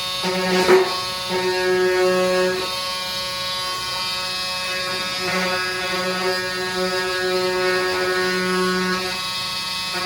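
A small electric power tool buzzing at a steady pitch, cutting a vinyl flooring plank, with a sharp click about a second in.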